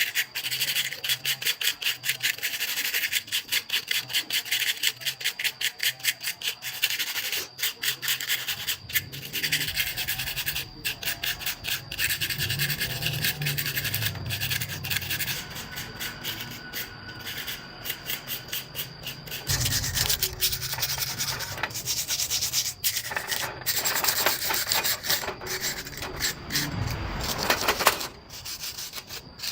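Hand sanding or scrubbing on a machine part during restoration, with quick back-and-forth abrasive strokes, several a second, and brief pauses.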